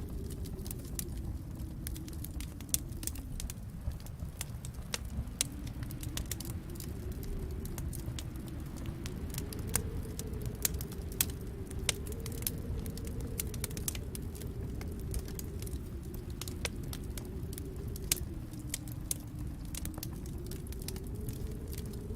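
Wood fire in a fireplace crackling, with sharp pops at irregular intervals over a low rumble that slowly swells and fades.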